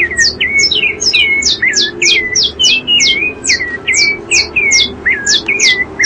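Several birds calling at once: a rapid, overlapping stream of high-pitched calls, each sliding steeply down in pitch and ending on a short level note, several calls a second.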